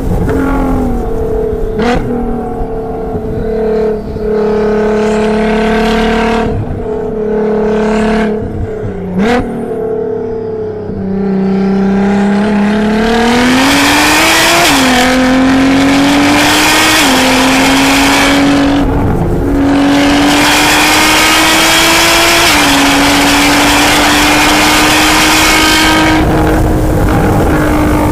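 Tuned Nissan GT-R twin-turbo V6 heard from inside the cabin on track. In the first part the revs hold and dip, with several sharp clicks; from about halfway the engine pulls hard, rising in pitch and dropping sharply at each of three upshifts.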